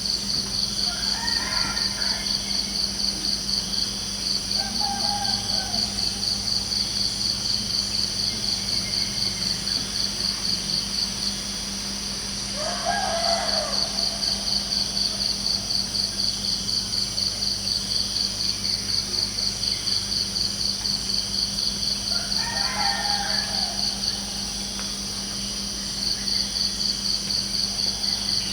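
Crickets chirping in a steady, fast-pulsing trill, with a bird calling four times over it, the third call, about thirteen seconds in, the loudest.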